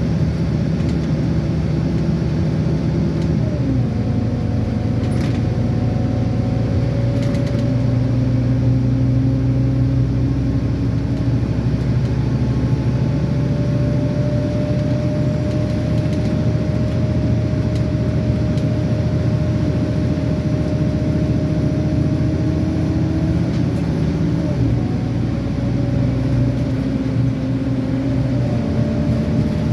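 Scania N230UD double-decker bus's five-cylinder diesel engine under way, heard from on board: a steady drone whose pitch climbs slowly as the bus gathers speed, then drops with a gear change, three times.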